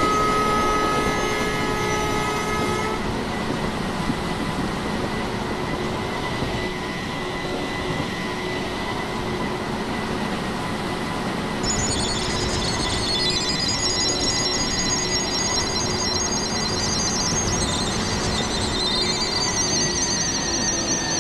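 Electric train running past on rails: a steady rumble with a constant whine. From about halfway in, a high-pitched squeal of several tones joins it, typical of wheels squealing on a sharp curve.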